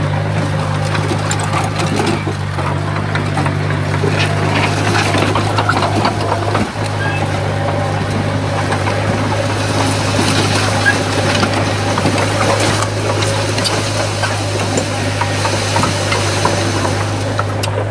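Komatsu bulldozer's diesel engine running steadily at an even speed, with scattered clicks and clanks over it.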